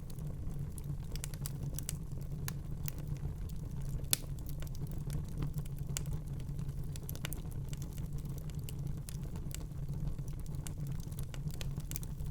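Wood fire burning in a fireplace: a steady low rumble of flames with frequent irregular crackles and pops, one sharper snap about four seconds in.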